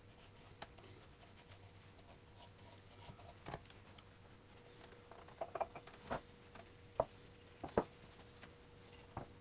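Scattered light clicks and knocks, like small metal parts and tools being handled on a workbench, with a cluster about five to six seconds in and two sharper knocks near the end, over a faint steady hum.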